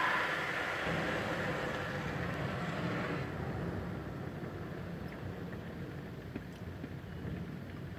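Car engine idling, a steady low rumble, with a hissing noise that fades away about three seconds in.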